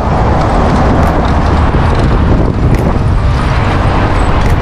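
Strong wind buffeting the microphone while riding along a busy road: a loud, steady low rumble with traffic noise mixed in.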